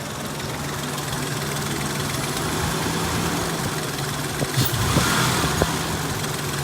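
Ford Sport Trac engine idling with Seafoam freshly mixed into its crankcase oil, making an unfamiliar, jarring noise that the owner takes for the engine adjusting to the treated oil. A few sharp clicks and a brief hissy rush come about two-thirds of the way in.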